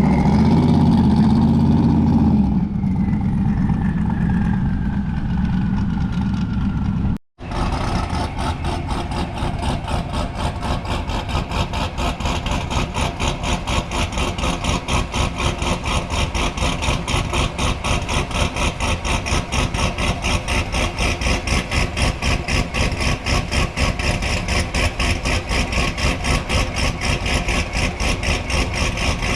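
Car engines running at a car show, in three edited clips. First a loud engine for about two seconds, then a quieter stretch with a faint falling whine. From about seven seconds in, an engine idles with an even, rapid pulse, several beats a second.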